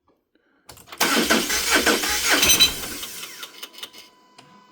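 Starter cranking the 2018 Subaru Crosstrek's FB20D flat-four for about two seconds without it catching, in even pulses of about four to five a second, then dying away: a crank-no-start, with a metallic jiggling rattle that the owner hears as pinging and dinging. The owner wonders whether the rattle is inside the engine and suspects timing off a tooth, fuel pressure or an air leak.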